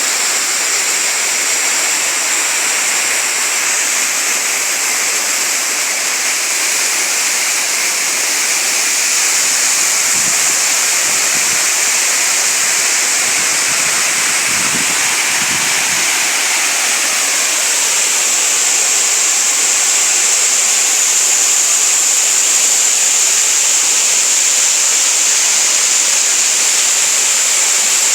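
Small waterfall and stream: water falling and rushing over rocks in a steady, dense hiss, with a few faint low rumbles partway through.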